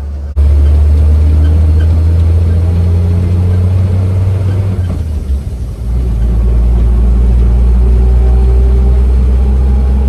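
1953 Chevrolet 6100 truck's straight-six petrol engine running loudly under way. About five seconds in it briefly eases off, then pulls on again at a lower pitch.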